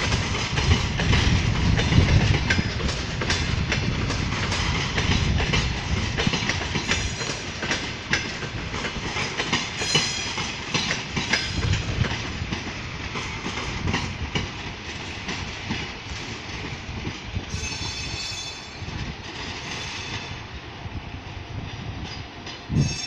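Double-decker passenger train pulling out, its coaches rolling along with wheels clicking over the rail joints over a steady rumble that slowly fades. A brief high squeal comes about three-quarters of the way through.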